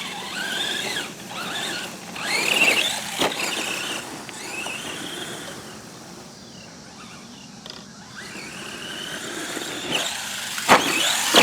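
Redcat Volcano EPX RC truck's brushed electric motor and gears whining as it speeds up and slows down again and again, the pitch rising and falling, over the noise of its tyres. It is running on a 2S LiPo battery, and it is quieter in the middle of the stretch before getting louder again.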